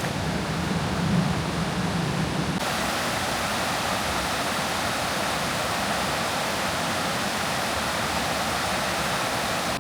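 Steady rushing water, like a stream or small waterfall, with a low hum under it at first; after about two and a half seconds it changes suddenly to a brighter, even rush.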